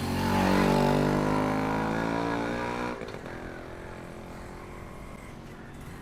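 Dramatic sound-effect sting from the soundtrack: a loud, deep droning tone that slowly falls in pitch for about three seconds, then drops to a quieter held tone.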